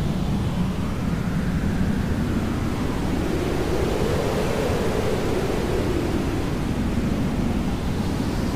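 Hair dryer running steadily: a continuous, even rushing noise, deep in tone, that slowly drifts up and back down in pitch.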